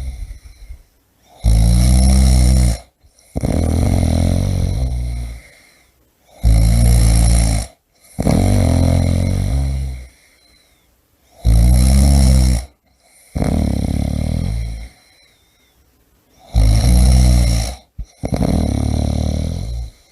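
A person snoring in a steady cycle about every five seconds, four times over. Each cycle is a loud, deep snore followed by a longer, breathier breath.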